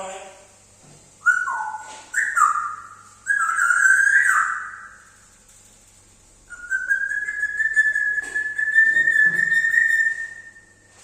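Pet parrot whistling: a few short notes that jump up and down in pitch, then after a pause one long held whistle that rises slightly.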